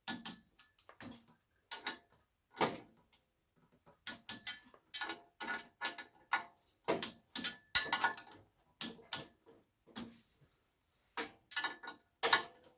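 Irregular metallic clicks and clinks of hand tools working the bolts of a VW Beetle's clutch pressure plate, some with a short metallic ring.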